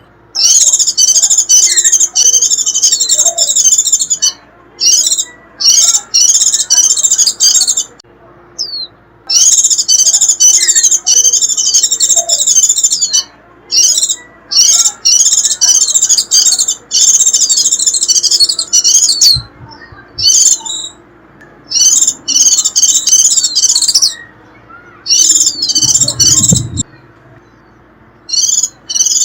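White-eye giving its rapid, high twittering 'rít' call, the excited chatter used as a lure call to draw wild white-eyes in. It comes in dense bursts of one to four seconds, separated by brief pauses.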